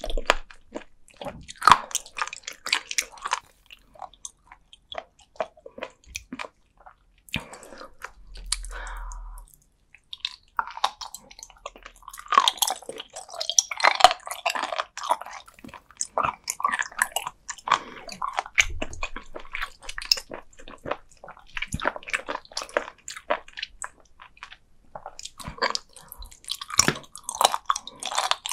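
Close-miked chewing of raw sea cucumber: firm, crunchy flesh giving dense wet crunches and clicks between the teeth, with a short pause about ten seconds in.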